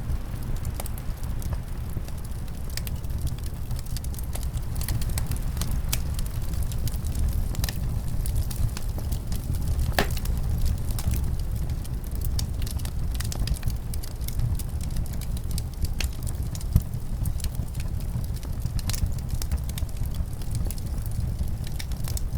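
Wood fire crackling, with frequent irregular pops and snaps and one louder pop about ten seconds in, over a steady low rumble of wind.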